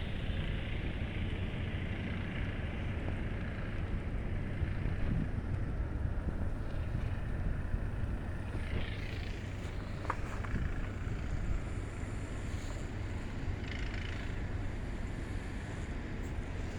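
Snowstorm wind blowing steadily, with a low rumble of wind buffeting the microphone.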